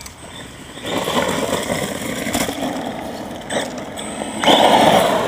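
Electric Redcat Volcano RC monster truck driving on cement. Its motor and tyres are heard from about a second in, and about four and a half seconds in comes a louder burst as all four tyres squawk on the cement.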